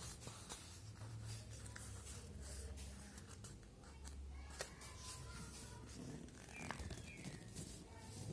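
Sheet of paper being handled and creased while folding a paper airplane: soft rustles and scattered small clicks over a low steady hum.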